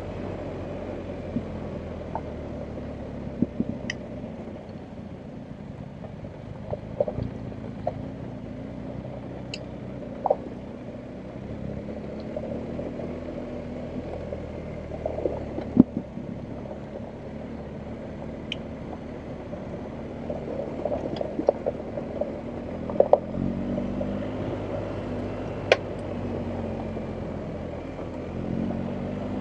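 BMW R1250GS Adventure's 1254 cc boxer-twin engine running at low revs while riding over rough ground, its note rising and falling with the throttle. Sharp knocks and clicks are scattered throughout.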